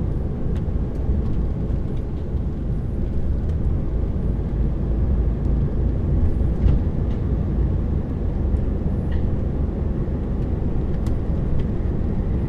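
Lorry engine and road noise heard from inside the cab while driving: a steady low rumble.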